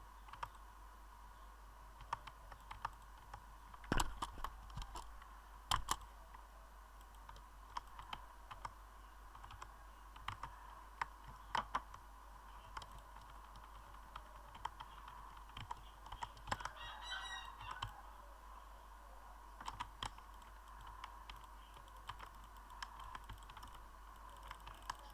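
Sparse, irregular clicks like keys being pressed on a computer keyboard, the loudest about 4 and 6 seconds in. A brief squeaky, warbling sound is heard about 17 seconds in, over a steady low hum.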